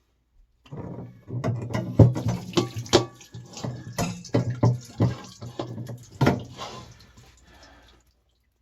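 Water splashing and dripping in irregular spurts from an electric water heater tank as the lower heating element is worked out of its port.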